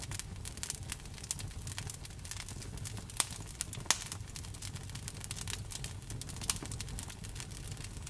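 Wood fire burning with a steady low rumble and irregular crackles and pops, a few sharper snaps about three and four seconds in.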